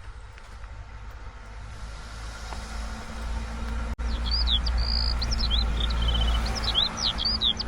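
Forest ambience with a low steady rumble. From about halfway a songbird sings quick, repeated rising-and-falling whistled notes.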